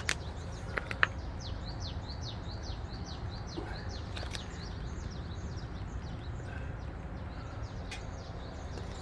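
A small bird singing a quick run of repeated down-slurred chirps, over a steady low rumble. A few sharp clicks sound in the first second.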